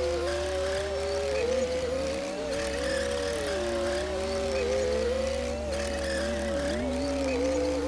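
Komatsu D60P bulldozer working. Its engine note dips in pitch and recovers twice as the load comes on and eases, over a steady low hum.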